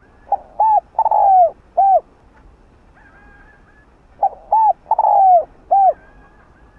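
Spotted dove (cu gáy) cooing: two phrases about four seconds apart, each of four coos, the third one longer and falling in pitch.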